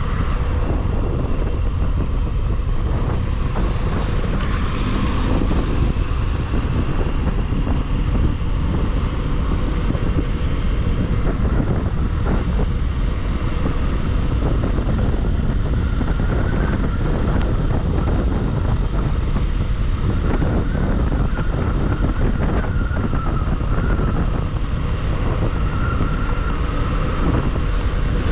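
Steady wind noise on the microphone of a Bajaj Pulsar motorcycle riding at speed, with its engine running underneath.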